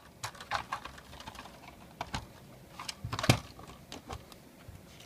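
Light plastic clicks and clatters from a Trackmaster Sodor Washdown toy being handled, with a louder knock about two seconds in and another a little after three seconds.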